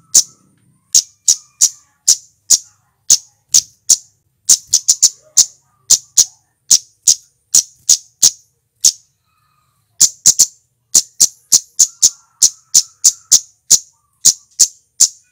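Male flowerpecker (cit keres or cabe-cabean) giving a series of short, sharp, very high chip calls, about two or three a second, with a pause of about a second a little past the middle.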